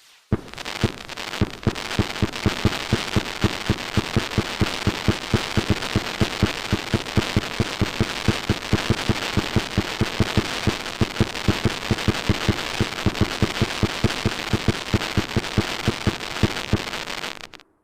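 Fireworks: a rapid, steady barrage of bangs, about four a second, over continuous crackling, which cuts off suddenly near the end.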